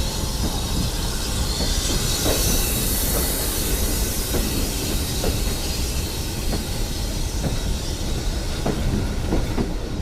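Heritage steam train running on the rails, its wheels clattering over the track with some squealing from the wheels. A brighter hiss rises and fades about two to four seconds in.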